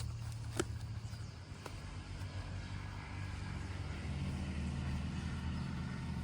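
A steady low engine hum, like a motor vehicle running, with a faint click about half a second in.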